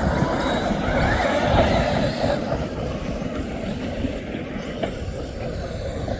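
Several RC cars racing, their motors whining with pitch rising and falling over a heavy low rumble. The sound is louder for the first couple of seconds, then eases somewhat.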